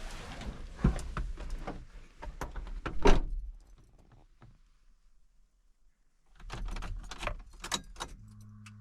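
Clicks, rattles and knocks of a vehicle door being handled, with a loud thump about three seconds in as it shuts. After a quiet pause there are more clicks and knocks, then the engine starts near the end and settles into a steady idle.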